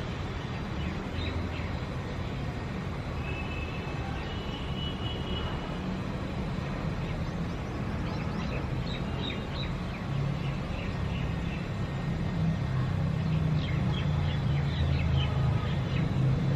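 City ambience: a steady low rumble of traffic that swells louder over the last few seconds, with birds chirping now and then over it.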